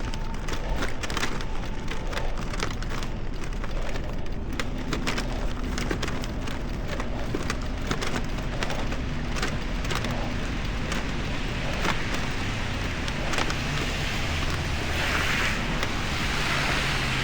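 A bicycle ridden through snow and slush: the tyres give a steady hiss, with many sharp clicks and rattles through the first part and a louder rush of noise near the end.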